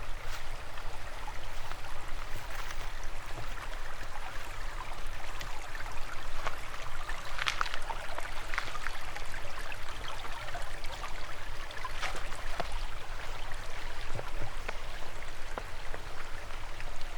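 Forest stream flowing steadily, its water rushing evenly, with a few light clicks over it.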